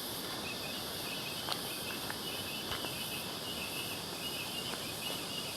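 Insects chirring steadily in bushland, with a pulsing trill repeating high up and a few faint ticks.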